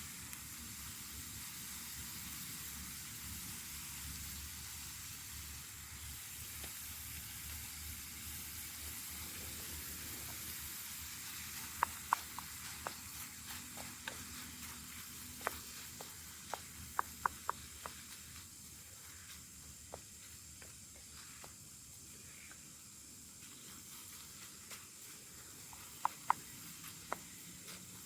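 Food sizzling as it fries in a pan over a campfire: a steady hiss, with sharp pops and crackles coming in clusters from about halfway through.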